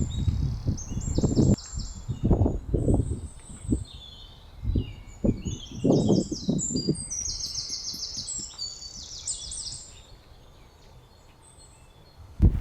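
Small songbirds singing rapid chirping trills, several overlapping, throughout. Short low thuds and rumbles come and go during the first seven seconds, then fade.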